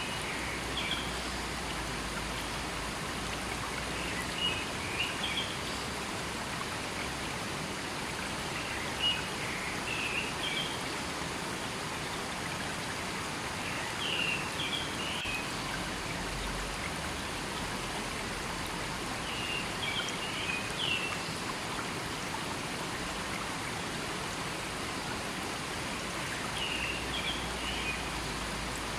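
River water flowing steadily, with a bird calling in short chirping phrases about every five or six seconds.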